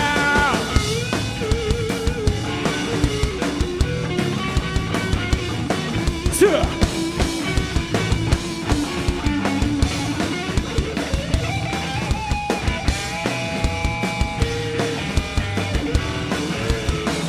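Rock band playing an instrumental passage between vocal lines: a drum kit keeps a steady beat while a pitched lead line, most likely electric guitar, slides and steps above it.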